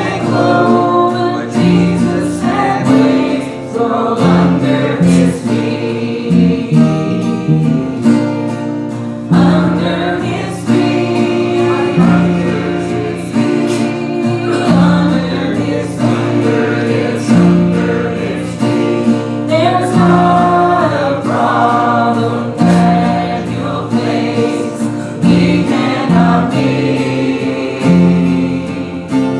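A church congregation singing a gospel hymn together, with instrumental accompaniment.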